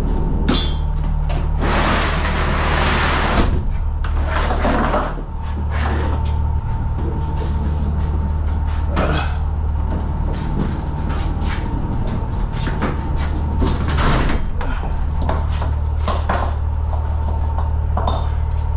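Clunks, knocks and rattles of doors and cargo being handled in a box truck over a steady low engine hum, with a rushing burst lasting nearly two seconds about two seconds in.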